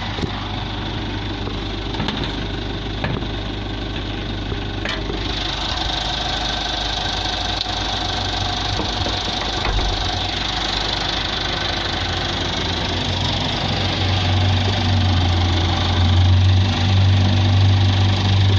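Mitsubishi 4D56 2.5-litre turbo diesel engine idling steadily with a diesel knock. It gets louder about two-thirds of the way through. A single sharp click comes about five seconds in.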